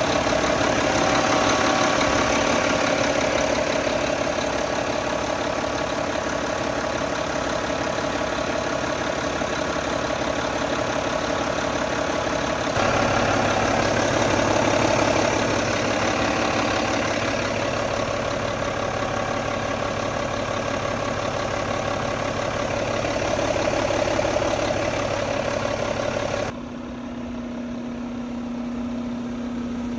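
The 10.8-litre Mack MP7 diesel of a garbage truck running steadily at idle. The sound changes abruptly twice, about 13 seconds in and again near the end, where the hiss drops away and a steady low hum remains.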